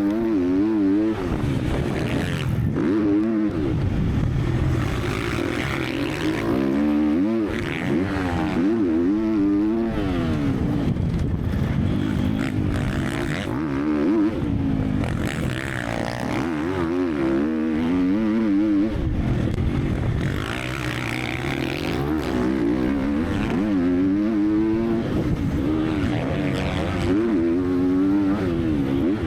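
Triumph TF 250-X motocross bike's 250 cc four-stroke single-cylinder engine being ridden hard, revving up and down over and over as the pitch climbs and drops every second or two.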